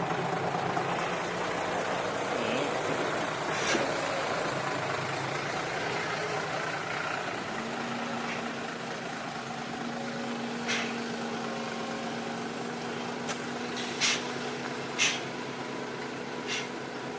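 Diesel engine of heavy earthmoving machinery, an excavator or dump truck, running steadily. A steady hum joins about seven seconds in, and about five sharp clanks come at intervals.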